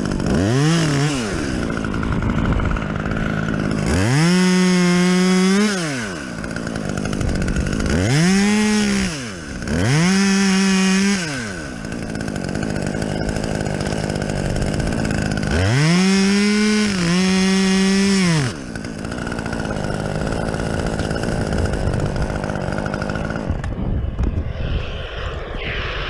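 Two-stroke chainsaw idling and repeatedly revved up to full speed, held there for a second or two each time before dropping back to idle, about five times; it stops near the end.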